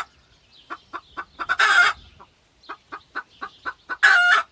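Chicken clucking in quick runs of short notes, twice breaking into a loud, drawn-out squawk.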